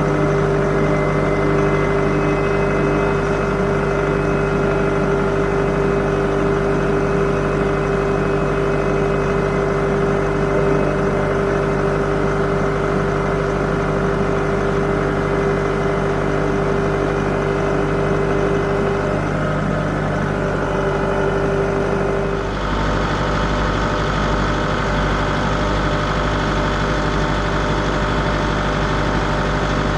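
An engine running steadily, with a steady pitched whine over it; about 22 seconds in the sound changes abruptly and it runs on with a different tone.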